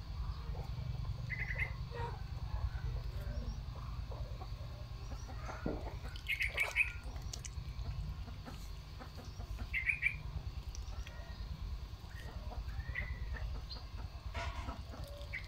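Birds chirping in short bursts every few seconds over a steady low rumble, with one sharp click near the middle.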